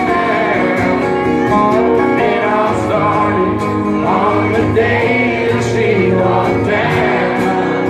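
Live country band playing, guitars to the fore.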